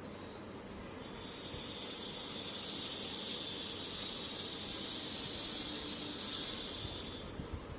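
A steady hiss that starts about a second in and stops fairly sharply near the end.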